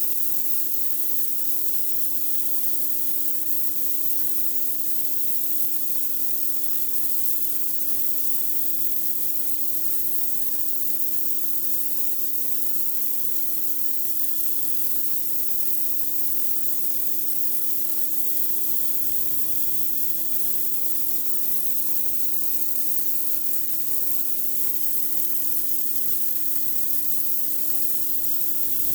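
Pressure washer blasting a dirty driveway: a steady, hissing spray of high-pressure water against the surface, over the machine's constant low hum.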